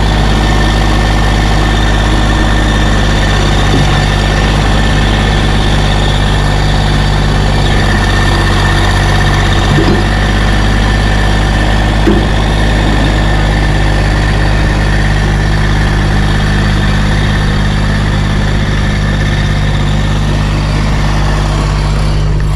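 Massey tractor's engine running steadily at low speed while it pushes a stalled tractor, with a couple of light knocks about halfway through.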